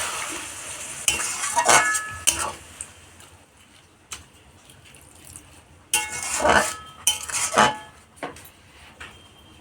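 Spatula stirring a curry in a metal pan, scraping and knocking against the pan in two bouts, about a second in and again about six seconds in, with a brief metallic ring.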